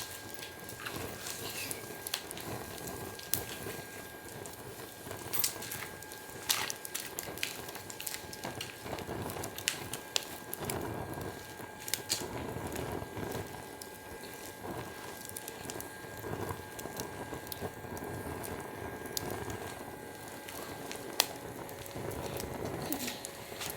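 Wood fire burning, crackling with scattered sharp pops over a steady rush of flame.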